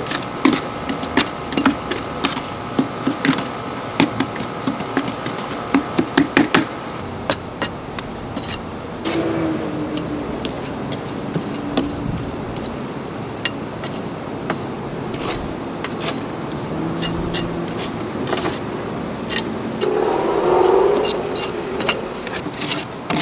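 Hand mixing of cement with red cement colour: a run of quick taps and knocks for the first several seconds, then a steadier rubbing and scraping with scattered clicks.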